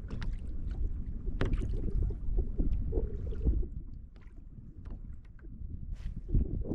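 Low rumble of wind and water around a fishing kayak, with a few short knocks and clicks scattered through it.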